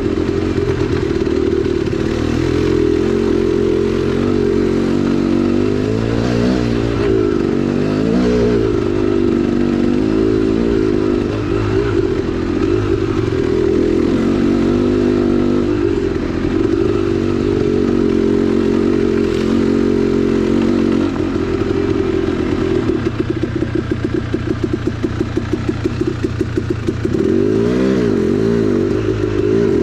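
2010 KTM 300XC-W's 300cc single-cylinder two-stroke engine running on a trail ride, its pitch rising and falling with the throttle. About two-thirds of the way through it drops to a choppy, pulsing low-rev beat, then revs up again near the end.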